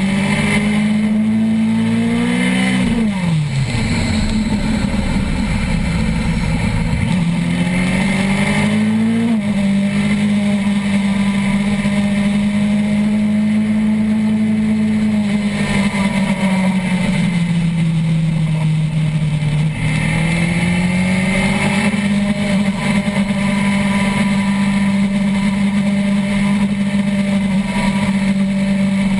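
Suzuki GSX-R1000 inline-four sportbike engine at high revs, heard onboard at racing speed with wind rush over the microphone. The engine note climbs, drops sharply about three seconds in as the rider backs off for a corner, climbs hard again, holds steady down a straight, eases off and picks up once more near the end.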